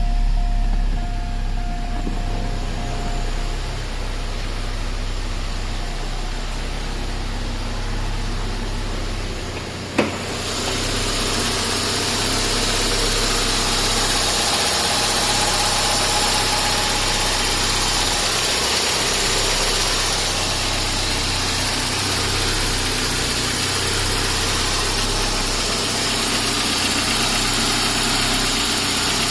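Porsche 944 inline-four idling steadily just after a cold start. There is a single sharp click about ten seconds in, after which a steady hiss is louder.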